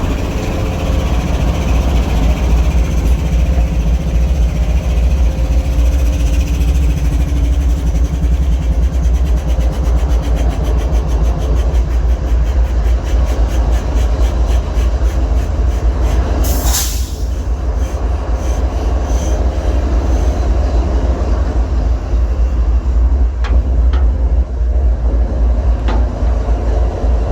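Freight train rolling, a heavy steady rumble with its wheels clacking rhythmically over the rail joints, the clacks quickening midway. A short loud hiss comes about two-thirds of the way through.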